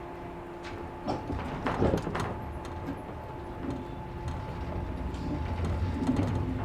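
Cab-car interior of a 113 series resistance-controlled electric train: a few clunks and clicks about a second in, then the low traction-motor hum rises slowly in pitch and grows louder as the train starts to pull away.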